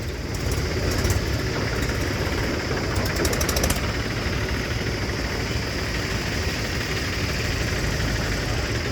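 Diesel tractor engine running steadily, a deep even rumble.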